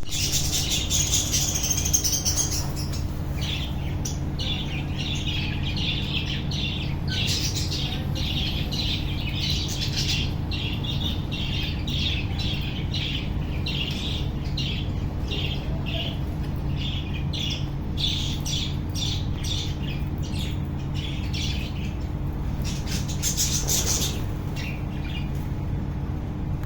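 A colony of budgerigars chirping and squawking, with many short high calls following and overlapping one another. A steady low hum runs underneath.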